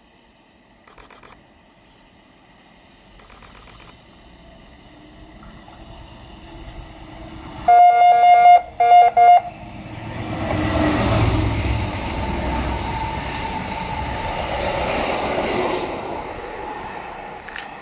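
An approaching diesel locomotive sounds its horn in two short, loud blasts, then the train passes close by with engine rumble and the rush of wheels on rail, fading near the end.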